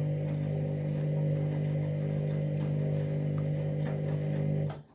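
Candy washing machine drum spinning at high speed, a loud steady motor hum that holds one pitch, then cuts off abruptly near the end.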